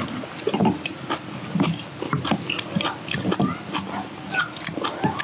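Several people chewing and crunching kimchi and rice close to the microphone: irregular wet crunches and smacks, with light clicks of chopsticks and metal utensils against metal bowls.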